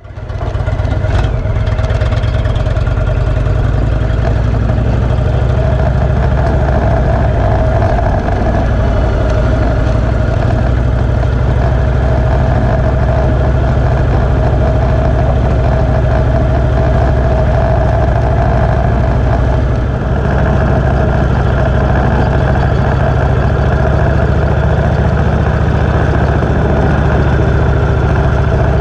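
Cruiser motorcycle's V-twin engine running steadily with a deep, even rumble. The sound cuts in abruptly.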